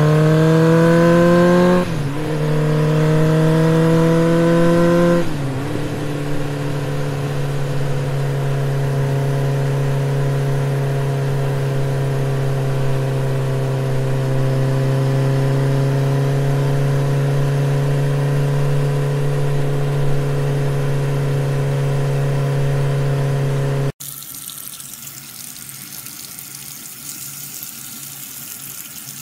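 A motor running with a steady pitched hum. Its pitch rises twice over the first five seconds like revving, then it holds steady. About 24 s in it cuts off suddenly and is replaced by a quieter sound of running water.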